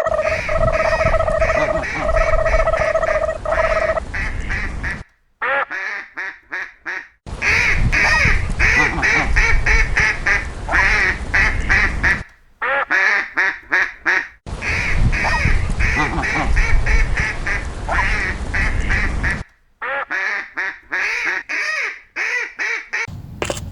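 Ducks quacking in rapid runs of calls, in several sections that start and stop abruptly as if spliced. A steady held tone sounds, broken twice, over the first four seconds.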